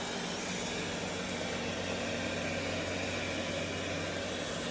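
Roborock robot vacuum running: a steady whir of its suction fan with a low motor hum.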